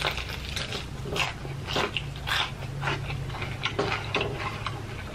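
Crunching and chewing of crispy Popeyes fried chicken breading, bitten off and chewed close to the microphone: a quick, irregular run of crisp crackles.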